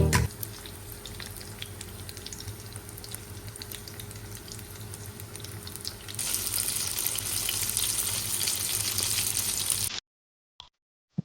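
Food frying in a pan: a soft crackling sizzle with scattered small pops. About six seconds in it turns to a louder, hissier sizzle, then cuts off abruptly near the end.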